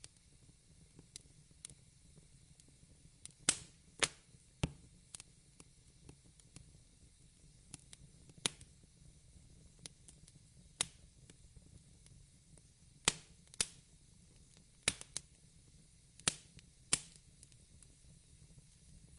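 Wood fire crackling: irregular sharp pops and snaps, about a dozen spread unevenly, over a faint steady hiss.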